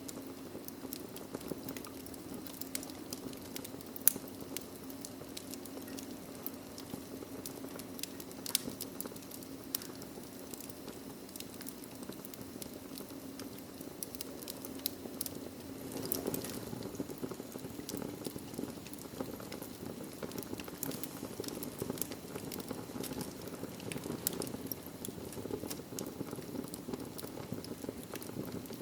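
Wood fire burning in a fireplace: a steady low rush of flames with frequent small crackles and pops, one sharper pop about four seconds in.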